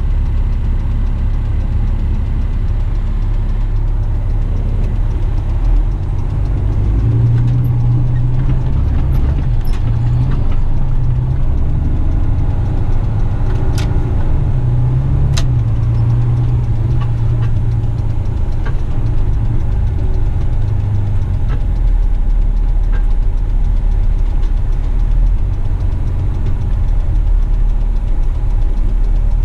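Western Star dump truck's diesel engine running. Its note rises about seven seconds in and settles lower after about twenty seconds. Two sharp clicks come a second and a half apart near the middle.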